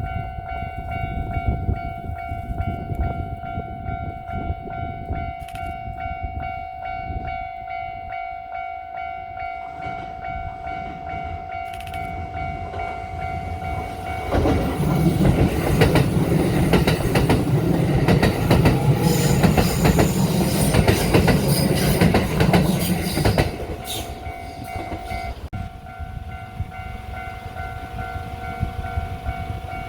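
Japanese level-crossing alarm ringing with steady, repeating electronic tones. About halfway through, a Kintetsu Nagoya Line train passes close by for about nine seconds, much louder than the alarm, its wheels clacking over the rail joints. After it has gone the alarm keeps ringing.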